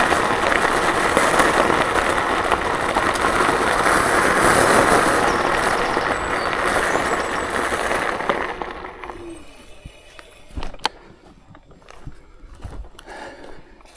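KuKirin G2 electric scooter rolling over a loose-stone path: a loud, even rolling and rattling noise that fades as the scooter slows about eight seconds in, followed by a few sharp clicks.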